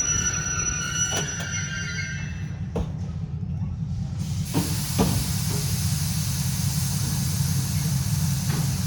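Passenger train drawing to a halt: the squeal of wheels and brakes dies away over the first couple of seconds, with a few metallic clanks. A steady hiss of air starts about four and a half seconds in, over a low steady rumble.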